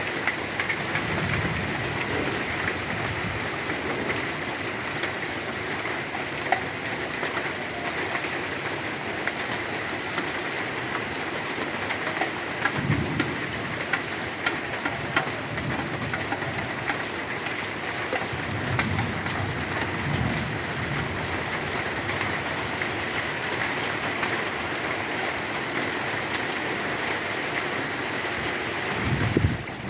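Heavy rain falling steadily, with many individual drops pattering on nearby surfaces. Brief low rumbles come and go a few times.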